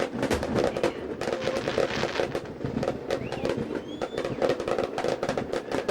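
Fireworks finale: a dense, continuous barrage of bangs and crackles from aerial shells going off one on top of another.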